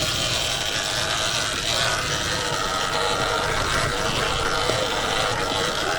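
Sur-Ron Ultra Bee electric dirt bike riding steadily along a trail: a faint, steady motor whine over wind and ride noise.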